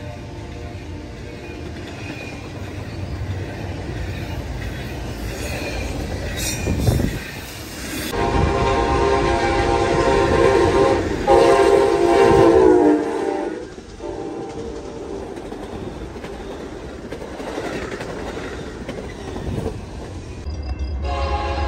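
Double-stack container freight train rolling past with steady wheel and rail clatter, while an approaching Amtrak passenger train sounds its air horn in long blasts, loudest from about eight to fourteen seconds in, the pitch sagging as the main blast ends. Near the end the Amtrak train arrives alongside with a deep low rumble and another horn note.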